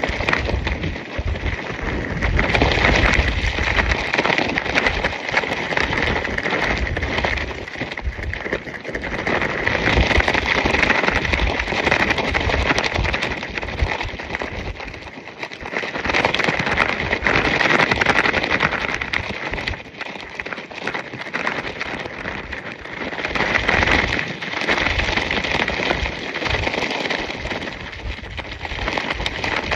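Nylon tracksuit fabric flapping and crackling rapidly in strong gusting wind, with wind buffeting the microphone. It swells and eases with the gusts every few seconds.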